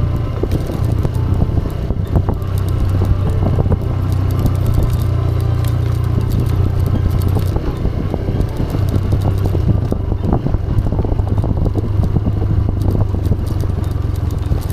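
TVS Raider 125's single-cylinder four-stroke engine running steadily under way on a rough off-road trail, with scattered clicks and knocks from the bike over the uneven ground. The engine note eases briefly about halfway through, then picks up again.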